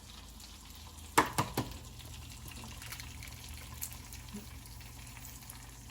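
Three quick sharp taps a little over a second in, an egg shell being cracked, over the faint steady sizzle of eggs frying in butter in a pan.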